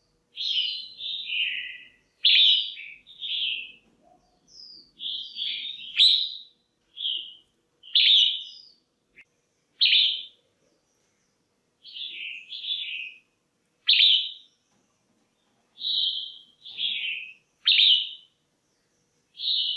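Female red-whiskered bulbul calling: short, bright chirping phrases repeated roughly every one to two seconds.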